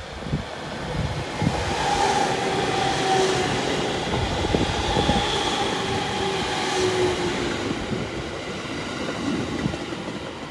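JR East 701 series electric train running past at close range, its wheels rumbling and clicking over the rails under a steady whine that fades out near the end.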